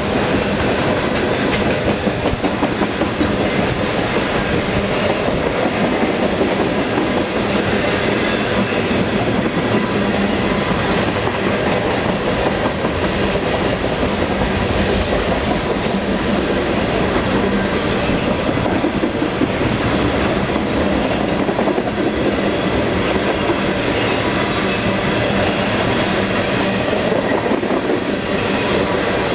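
Freight train of boxcars and refrigerated boxcars rolling steadily past: a continuous rumble and clatter of steel wheels on the rails, with a few brief clicks.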